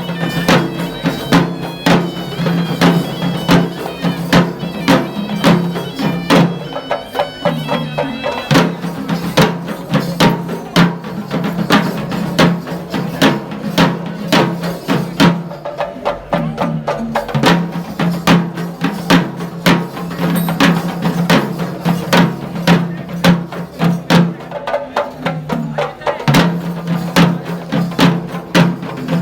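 Traditional Sri Lankan procession music: rapid, dense drumming with a shrill wind instrument playing a wavering melody during roughly the first eight seconds, over a steady low tone that drops out now and then.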